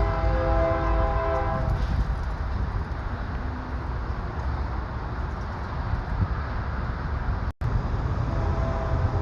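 Air horn on a Mack semi truck sounding a steady multi-tone chord for about the first two seconds, then a short second blast near the end. A low engine and road rumble runs underneath, with a brief dropout about three-quarters of the way through.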